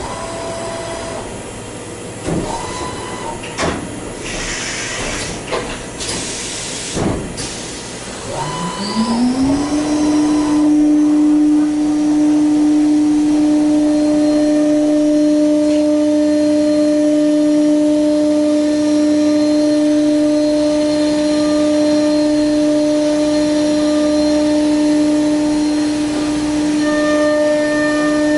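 Lathe spindle spinning up: a rising whine about eight seconds in settles into a steady hum that holds to the end. Before it come clicks, short hissing bursts and brief beeps from the machine being set up.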